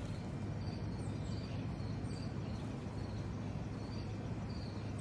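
Outdoor ambience: a steady low rumble with short, high chirps repeating about every half second and a few higher calls.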